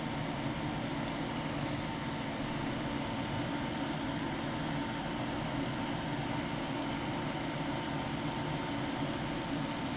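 Steady mechanical hum with a faint constant whine, and a few faint ticks about one to three and a half seconds in.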